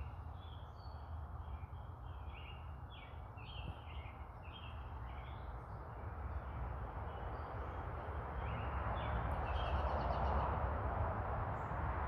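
A bird singing a run of short, quick chirped notes, over a background hiss and low rumble that grow louder in the second half.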